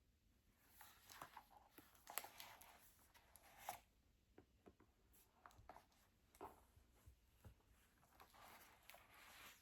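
Faint rustling of book pages and light handling taps, scattered with short clicks, with a longer soft rustle near the end.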